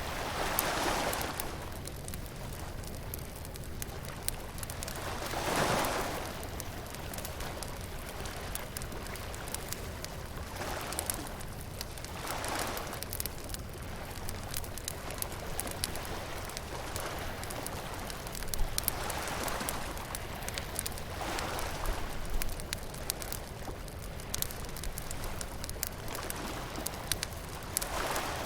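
Bonfire crackling and popping steadily, with waves washing in on the beach in slow swells every few seconds.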